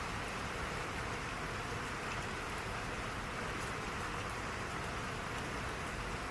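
Steady rain falling, an even hiss of rain with faint individual drops ticking.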